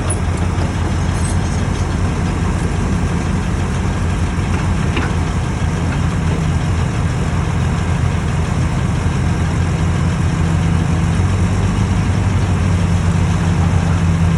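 Hyundai dump truck's diesel engine idling steadily with a low, even hum, growing a little louder near the end.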